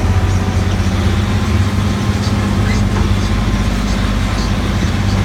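Engine of a road-going tourist 'beach hopper' train running steadily with a constant low drone.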